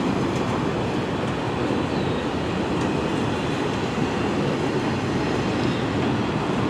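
CN freight train's cars rolling past close by: a steady rumble and rattle of wheels on rail.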